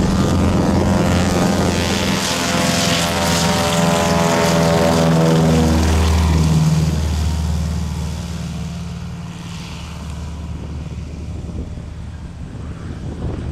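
Douglas DC-3's twin nine-cylinder Wright Cyclone radial engines at high power as the plane passes by, the propeller drone falling in pitch. After about seven seconds it fades as the plane moves away.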